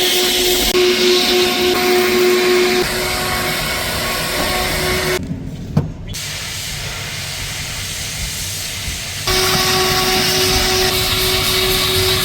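Pressure washer spraying a car: a steady hiss of high-pressure water over a constant pump-motor hum, which drops out abruptly for a few seconds in the middle, around a single sharp knock, and then resumes.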